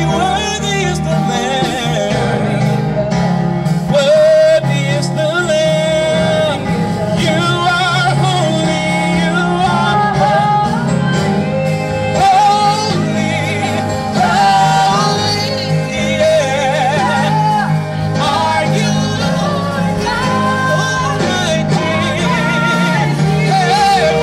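Gospel music with a singing voice over a sustained bass accompaniment.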